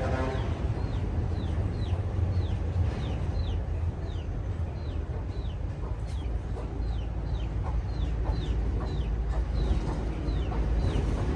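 A small animal's high, thin peeping call, each peep falling in pitch, repeated about twice a second over a steady low rumble.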